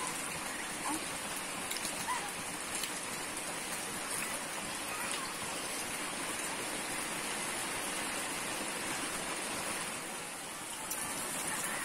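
Steady rain falling, an even hiss that dips briefly near the end.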